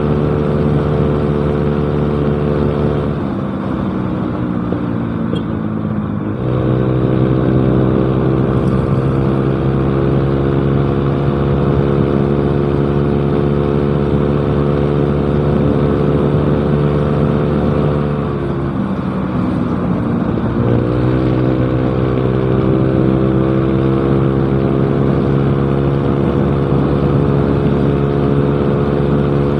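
Yamaha Mio Smile scooter's engine running through a cheap aftermarket exhaust while riding, at a steady pitch. Twice the pitch falls as the throttle is eased off, about 3 and 18 seconds in, and comes back up a few seconds later.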